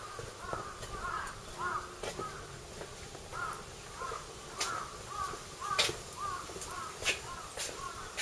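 A bird calling over and over in short rising-and-falling notes, about two a second, with a few sharp clicks in between.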